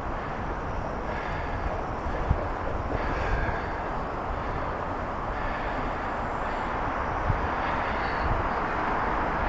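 Steady rushing wind and rolling noise from riding a bicycle, growing a little louder near the end.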